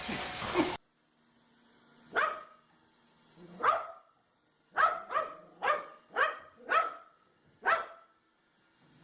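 A steady hissing noise cuts off abruptly under a second in. Then a dog barks about eight times in short, sharp single barks, with a quick run of five barks in the middle.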